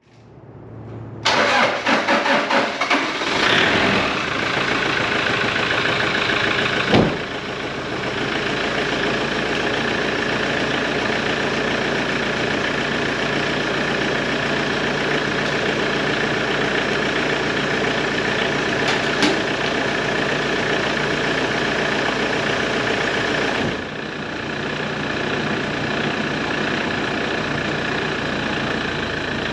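Toyota Hilux pickup engine cranking for a couple of seconds, catching and then idling steadily, with a slight drop in level near the end.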